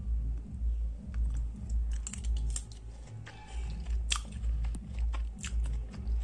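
A person chewing a mouthful of sweet raw-papaya chutney, with wet clicks and small crunches, over background music with a steady low beat.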